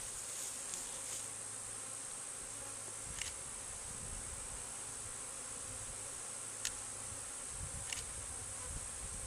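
A honeybee swarm buzzing steadily, with a few light clicks.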